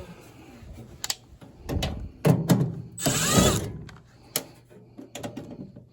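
Hands and tools working on a furnace's metal parts: a few sharp clicks and a loud, noisy rattling stretch of about two seconds in the middle.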